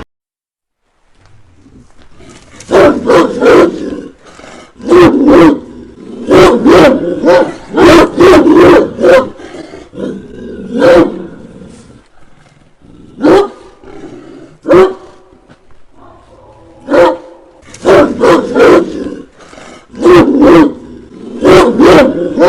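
Dogs barking fiercely in clusters of rapid loud barks with short pauses between them, after a brief silence at the start.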